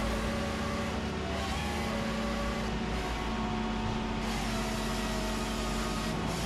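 John Deere 3156G tracked forestry machine running steadily, its diesel engine droning while the Southstar QS600 processor head works.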